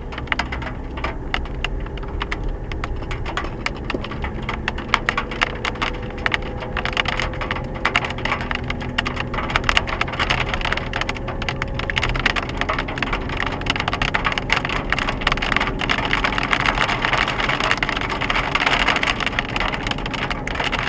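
Hailstones pelting a vehicle in a hail storm: a dense, irregular patter of sharp clicks that grows heavier about a third of the way in and heavier still near the end, over a low running-engine rumble.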